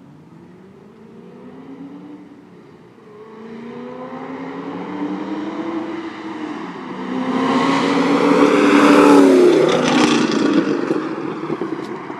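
Chevrolet Camaro ZL1's V8 with a Corsa exhaust, accelerating in third gear as the car approaches and passes by. The exhaust note climbs in pitch and grows louder, is loudest a little past the middle, then fades as the car pulls away.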